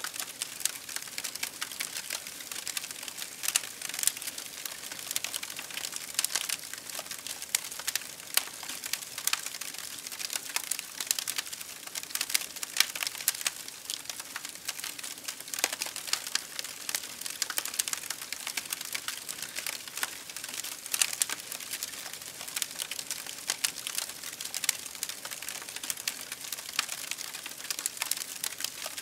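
Campfire burning, with dense, irregular crackling and frequent sharper pops over a steady hiss.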